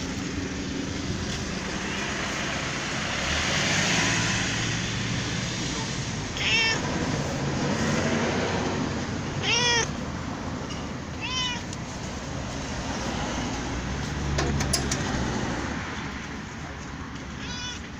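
A cat meowing about four times in short calls, the loudest about ten seconds in, over a steady background hiss.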